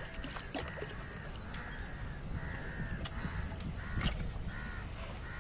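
Birds calling over and over, short calls about two a second, with a single sharp knock about four seconds in.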